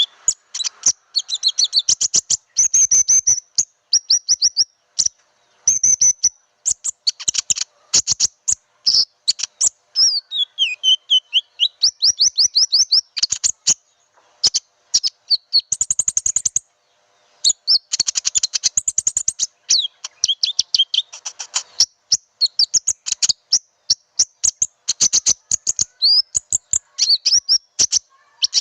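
A lure recording of konin bird calls: dense runs of rapid, high chirps and trills, broken by short pauses, played to attract wild birds.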